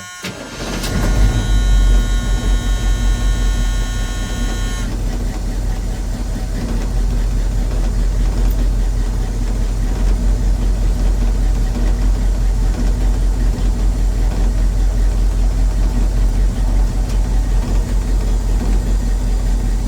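A Chevy 350 small-block V8 catches and runs rough and uneven, with two spark plug wires crossed. A steady buzzing tone sounds over it and stops about five seconds in.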